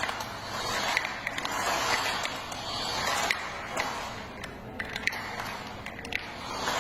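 Plastic toy truck's wheels rolling back and forth across a surface, in repeated swells of rolling noise with small clicks.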